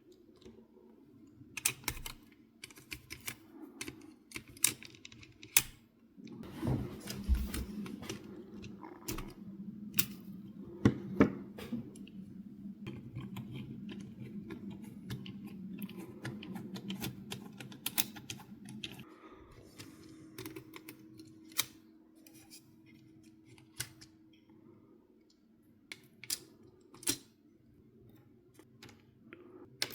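Irregular sharp clicks and taps of hard plastic parts and small pieces being handled and fitted, a few louder knocks among them, with a low steady hum underneath through the middle stretch.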